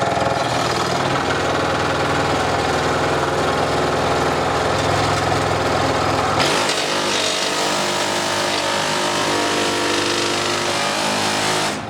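Scheppach Deco 405 V scroll saw running at about half speed and going "slightly mental", a loud running drone. About six and a half seconds in it turns harsher and higher-pitched, and it cuts off suddenly near the end. This is the sign of the saw's fault: the bearing where the motor meets the lower arm has failed.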